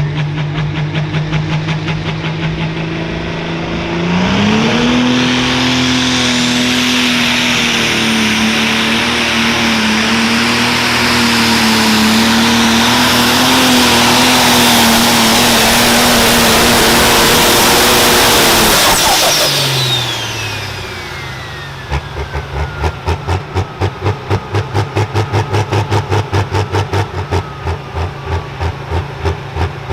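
Turbocharged pro stock pulling tractor's diesel engine idling, then going to full throttle about four seconds in and holding a steady high note for about fifteen seconds of the pull. It then shuts down, a turbo whistle winds down in pitch, and the engine settles back to a loping idle of about three beats a second.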